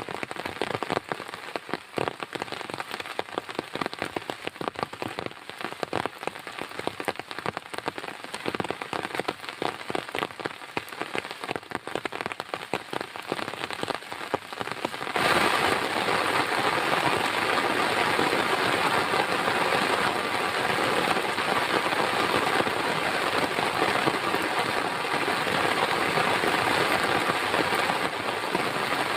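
Heavy rain. For the first half, many separate drops strike a surface in a dense patter; about halfway through it abruptly turns into a louder, even, steady downpour.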